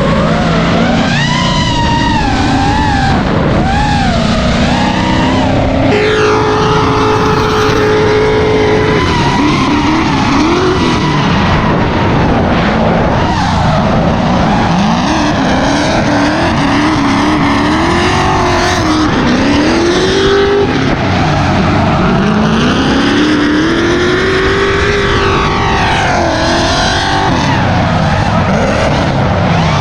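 Several drift cars' engines revving, their pitch swinging up and down as they slide, over a continuous haze of tyre squeal and skidding. A few seconds in, one engine holds a steady pitch for about three seconds.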